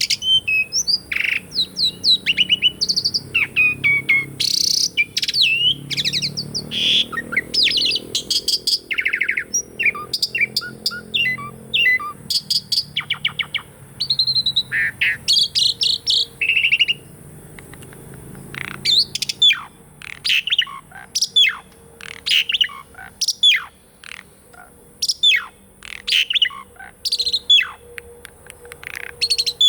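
Asian pied starling (jalak suren) singing a long, varied song of whistles, pitch glides and chattering notes. In the second half it turns to a string of quick, sharp downward-slurred notes, about two a second.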